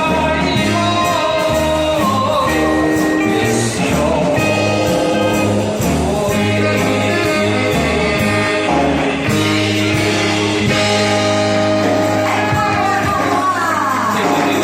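A man singing a song over backing music with a steady beat and sustained bass.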